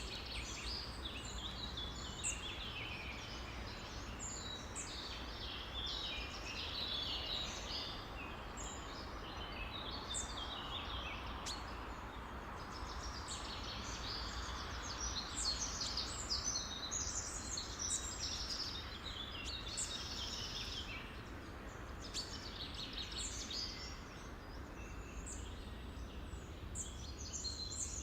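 Many birds chirping and calling at once, a dense overlapping chorus of short, high chirps and trills, over steady low background noise.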